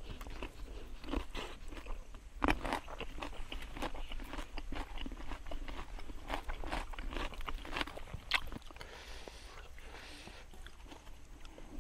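Crisp crunching and chewing of a bitten raw cucumber, with a louder crunch about two and a half seconds in. Near the end, a softer crackle as charred grilled fish is pulled apart by hand.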